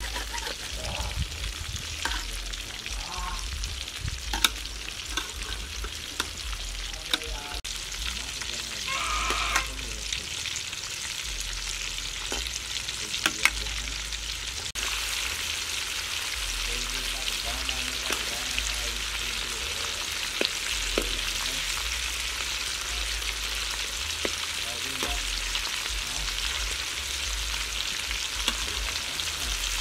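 Tomatoes and egg frying in oil in a steel wok: a steady sizzle, with a metal spatula scraping and tapping against the wok now and then.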